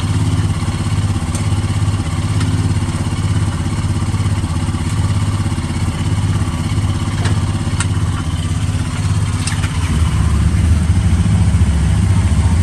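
Royal Enfield Super Meteor 650's parallel-twin engine idling steadily, with a few sharp clicks while its loose silencer is tightened. The engine gets louder about ten seconds in.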